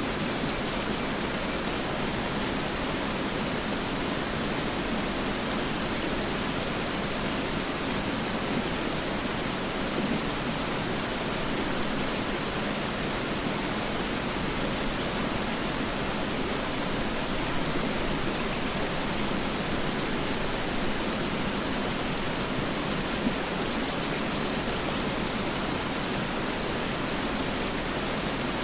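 Mountain river flowing and rushing over rocks: a steady, even rush of water with no breaks.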